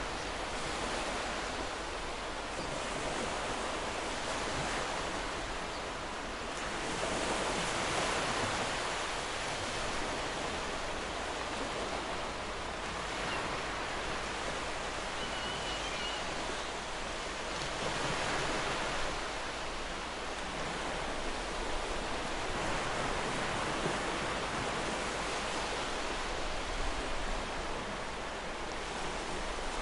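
Ocean surf: a steady wash of breaking waves that swells and eases every several seconds.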